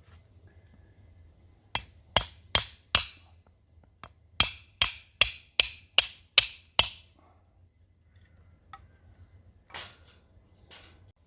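Hammer blows: a run of four sharp strikes, then after a short pause seven more at about two and a half a second, some with a brief metallic ring, followed by two fainter knocks near the end.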